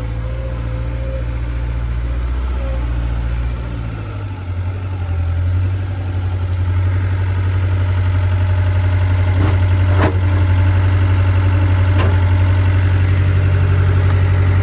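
Skid steer engine running steadily, its note shifting about four seconds in, with a couple of sharp clicks later on.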